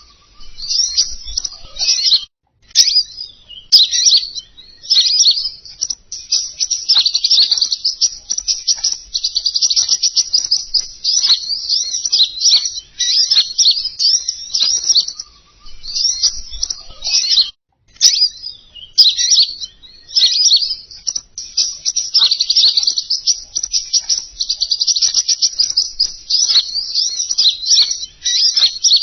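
Recorded songbird song used as a lure call for the bird known in Indonesia as 'king konin': rapid, high, chattering trills in long phrases, with a couple of brief pauses.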